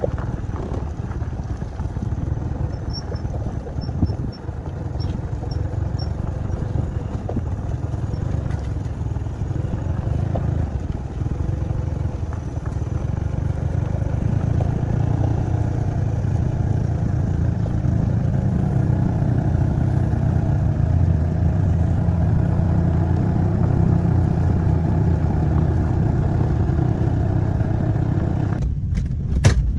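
An engine running steadily with a low rumble, growing a little louder in the second half; a sharp click near the end.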